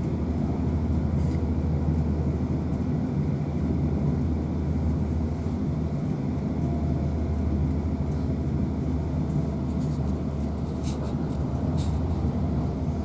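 Inside a South Western Railway Class 450 Desiro electric multiple unit running at speed: a steady low rumble from the moving train, with a few short light clicks about eleven seconds in.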